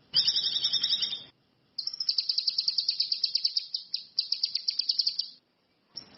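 A cucak kinoi (ranti mas) songbird singing: a short burst of rapid high chattering notes, then after a brief pause a long, fast trill of repeated notes that stops near the end.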